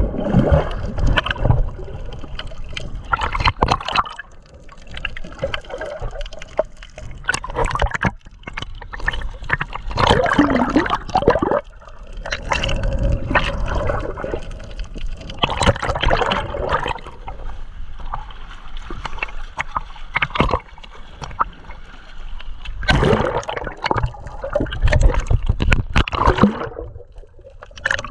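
Sea water sloshing and gurgling close around the microphone in irregular surges.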